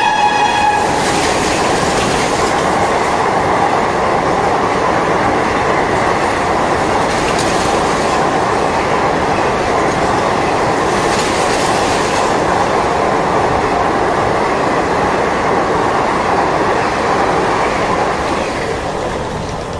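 A train's horn sounds and cuts off just under a second in. A train then runs on with a steady rumble and clatter of wheels on the rails, easing off near the end.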